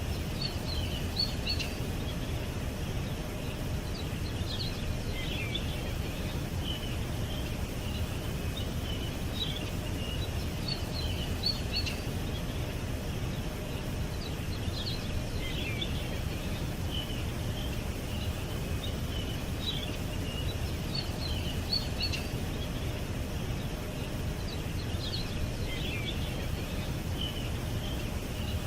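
Small songbirds chirping and trilling in short high bursts that recur every few seconds, over a steady low rumble of outdoor background noise.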